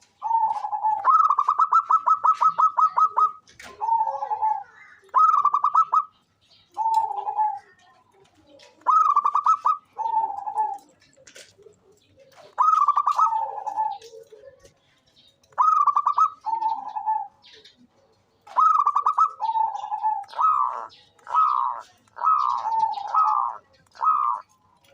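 Zebra dove (perkutut) singing, a series of cooing phrases. It opens with a rapid run of short notes for about two seconds, then repeats short coos every one to three seconds, coming in quicker succession near the end.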